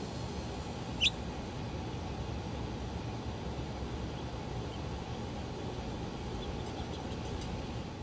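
A single short, high chirp sweeping upward about a second in, from a small songbird at a seed feeder, over a steady low background rumble; a few much fainter high chips follow near the end.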